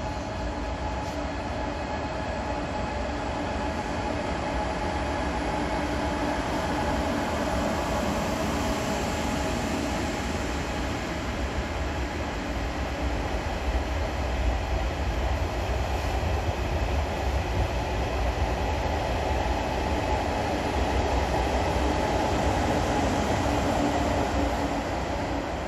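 KTX-Sancheon high-speed train running along a nearby station track, a steady rumble with a hum of several steady tones that grows a little louder in the second half.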